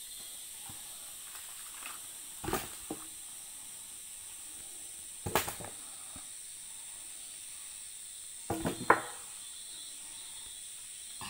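Short knocks and scrapes of a heavy log being worked loose from the soil, three times, the last one near the end the loudest, over a steady high hiss.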